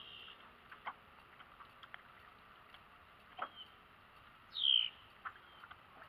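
Brief high bird calls over a quiet background, the loudest a short falling call about four and a half seconds in, with a few faint clicks.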